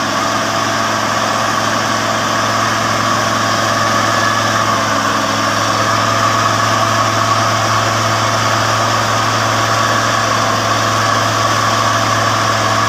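Truck engine running at a steady idle, a constant hum with no change in speed.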